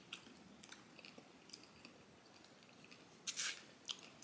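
Quiet mouth sounds of people eating chocolate-coated sherbet bars: small wet chewing clicks, with one short, louder mouth noise about three seconds in.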